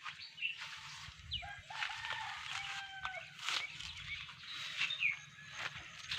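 A rooster crowing once, a long stepped call lasting about two seconds, with short high bird chirps around it.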